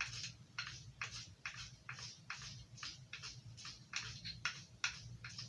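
Knife blade stroked by hand across a broken piece of Arkansas sharpening stone, one short scrape per pass, about three strokes a second.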